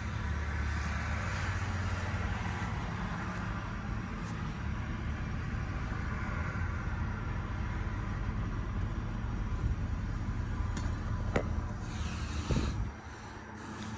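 Outdoor air conditioner condenser units running with a steady low hum and fan noise. A couple of sharp knocks come near the end, then the running noise drops away about 13 seconds in as a unit shuts off.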